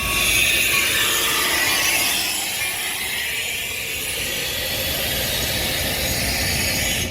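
Steady hissing rush of a commuter train at a station platform, strongest in the upper range and a little louder for the first two seconds, cut off suddenly at the end.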